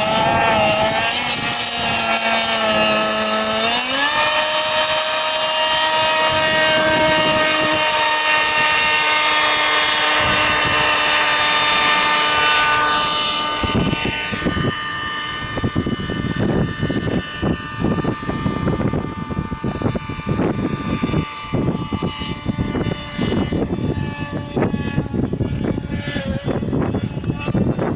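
Model Mirage jet's engine running with a high whine, its pitch rising sharply about 3 to 4 seconds in. After about 13 seconds the whine fades and the engine tone continues more quietly under irregular rushing noise.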